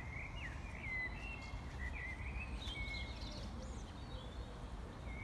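Small birds chirping and whistling, short high notes scattered all through, over a low steady rumble.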